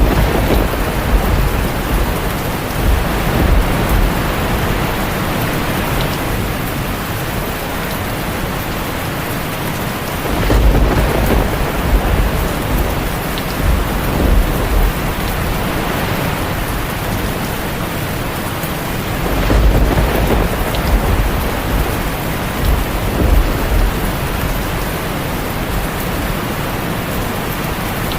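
Steady, heavy rain hissing without a break, with low rumbles of thunder swelling up several times: near the start, about a third of the way in, and twice more past the middle.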